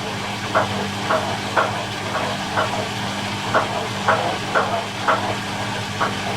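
Miele Little Giant PWM 507 commercial washing machine in its final spin at 1200 rpm: a steady motor hum and the rush of the spinning drum, with a short swishing pulse repeating about twice a second.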